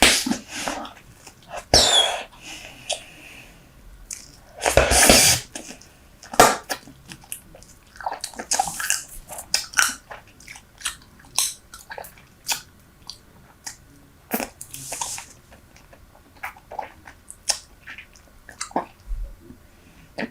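Close-up chewing of Super Bubble bubble gum: irregular wet smacks and sharp clicks, with a longer hissing burst of air about five seconds in. The gum has gone hard and stiff.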